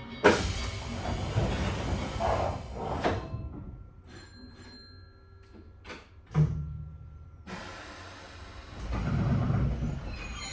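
Nankai 2200-series train at a station stop with its doors just closing: a loud air hiss starts sharply and cuts off suddenly after about three seconds. A single knock follows a few seconds later, and the train's running noise builds near the end as it pulls away.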